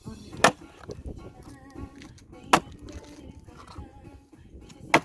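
Axe strikes splitting firewood: three sharp, loud chops about two seconds apart, under background music.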